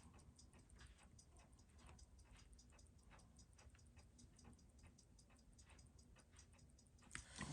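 Faint, rapid, even ticking of a Seiko 6139 automatic chronograph movement running, about six ticks a second, with a small knock near the end.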